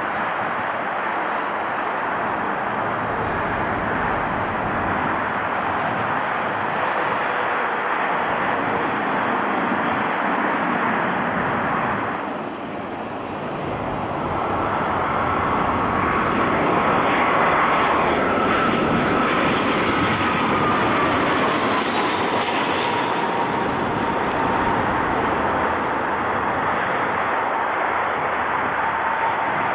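Jet airliner passing close by: steady engine noise, then from about halfway a high turbine whine that slowly falls in pitch, with a strong hiss at its loudest.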